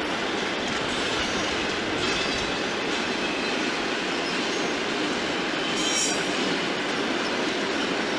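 Freight train of container wagons and covered vans rolling past, a steady rumble of wheels on rail. A brief high wheel squeal about six seconds in.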